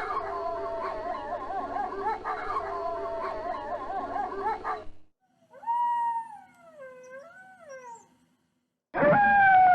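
Wolves howling: a chorus of several overlapping, wavering howls for about five seconds, then after a short break a fainter single howl that rises and falls. Near the end a loud howl slides down in pitch.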